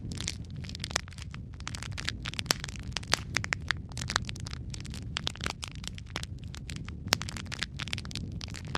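Wood fire burning in a fireplace, crackling and popping irregularly over a low steady rumble, with one sharper pop about seven seconds in.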